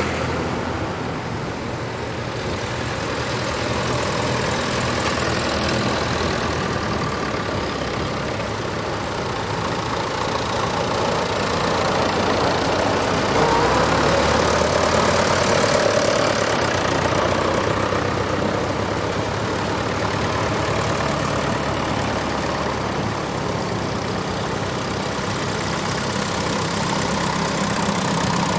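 Tractor engines running at a fairly even level, with one engine rising in pitch about halfway through.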